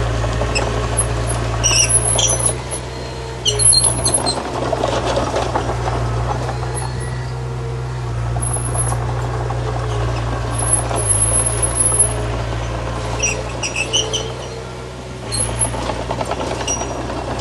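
Bulldozer diesel engine running steadily under load, with short high-pitched squeals recurring every few seconds and some clattering.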